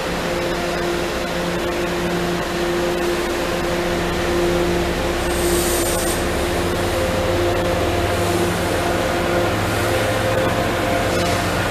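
MBTA commuter train of bilevel coaches rolling by on the track: a loud, steady drone with several humming tones, and a low rumble of wheels on rails that grows a few seconds in. A short hiss about halfway through.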